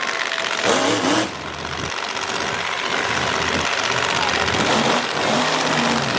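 Monster truck engine running loudly and steadily, with a brief voice heard about a second in.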